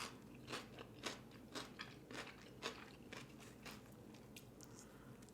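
Close-miked chewing of a mouthful of burger: soft, moist mouth clicks about twice a second, growing fainter after about three seconds.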